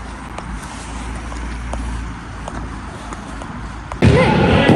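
A steady low rumble with a few faint clicks. About four seconds in it cuts abruptly to a much louder mix of a voice and noise.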